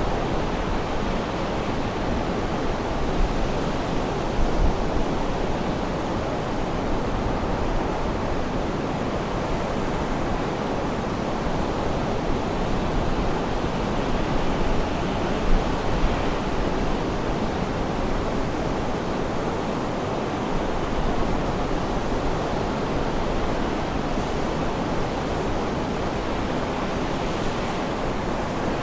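Sea surf washing steadily: a constant rush of water noise with no distinct breaks or birdsong.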